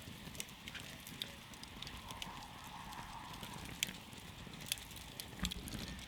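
Wood campfire crackling: irregular sharp pops and snaps over a steady low rush of burning, with a few louder pops in the second half.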